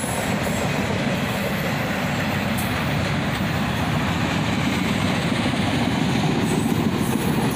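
Freight train's autorack cars rolling past, a steady noise of steel wheels running on the rail.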